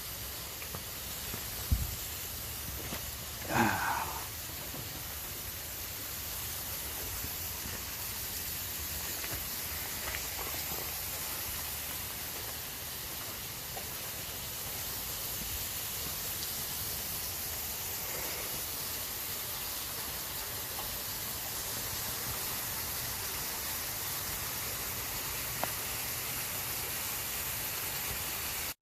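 Steady rush of a small waterfall after rain, an even hiss of falling water. A thump about two seconds in and a brief louder sound a second or so later.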